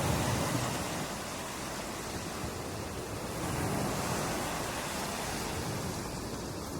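Ocean surf washing onto a beach: a steady rushing wash of water, with a wave breaking at the start and another swelling about halfway through.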